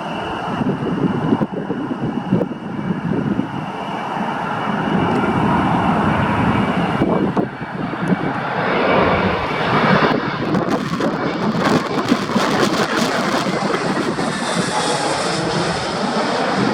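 Airbus A320-200 jet engines running as the airliner flies its landing approach past, a loud steady rushing roar that grows louder about halfway through.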